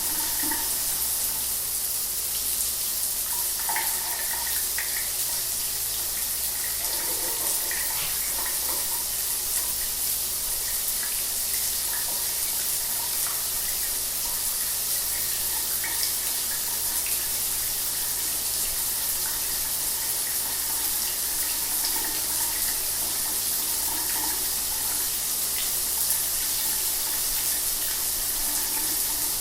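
Shower water running steadily, a continuous hiss of spray with small splashes scattered through it.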